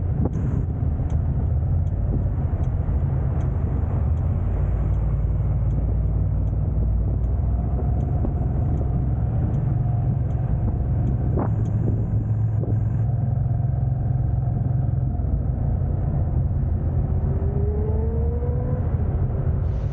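A car driving: steady low rumble of engine and road noise, with a faint rising whine in the last few seconds.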